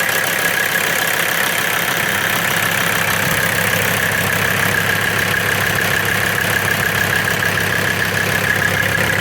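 Mercedes turbo diesel engine in a 1994 Toyota 4Runner idling steadily with an even, rapid diesel clatter and a steady high whine over it. The engine is not yet warmed up.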